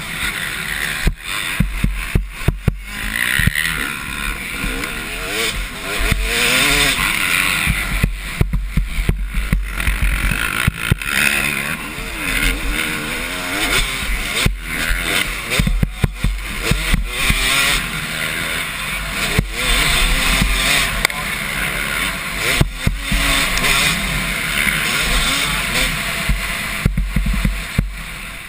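Two-stroke motocross bikes racing round the track, their engines revving up and down again and again as they accelerate and shut off, with wind buffeting the microphone.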